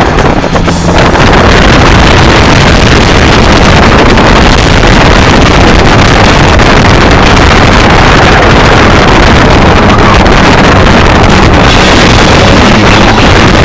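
Car engine running hard as the car is driven at speed on a race track, mixed with wind and road noise, heard from inside the cabin. The sound stays loud and steady and overloads the recording.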